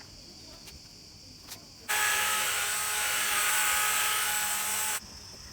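A machine switched on about two seconds in, running with a loud, even hiss and a few steady tones for about three seconds, then cut off suddenly.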